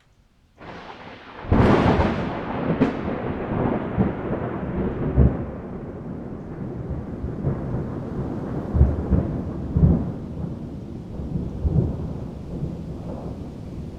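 Thunderstorm with rain falling: a close thunderclap cracks sharply about a second and a half in, with a second crack soon after, then rolls on as a long low rumble with repeated booms, slowly fading.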